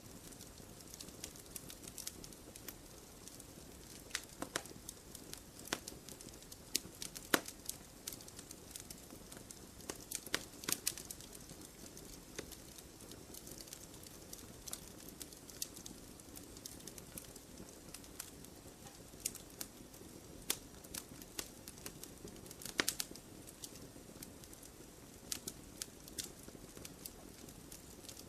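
Wood fire burning with a soft steady rush and frequent irregular sharp crackles and pops, a few louder snaps among them.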